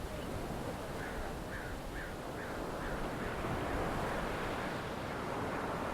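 Steady wash of ocean surf and wind. About a second in comes a quick series of about five short bird calls.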